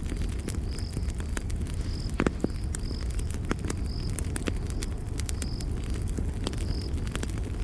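Campfire crackling, with irregular sharp pops and snaps over a steady low rumble of burning wood; the loudest pop comes about two seconds in. A short high chirp, like a cricket's, repeats roughly once a second.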